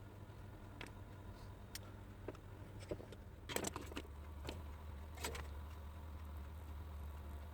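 Scattered light clicks and small metallic rattles from parts and tools being handled on an electronics workbench, busiest a little past the middle with another click about a second later, over a faint steady low hum.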